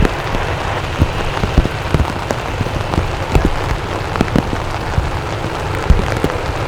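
Steady rain, with many irregular drops striking close to the microphone as sharp ticks and dull thumps.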